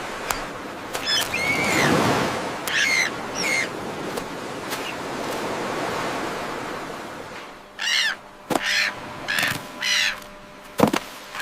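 A bird giving a series of short, repeated calls: a few in the first four seconds, then a quicker run of about five in the last four seconds, over a steady rushing noise. A sharp knock sounds near the end.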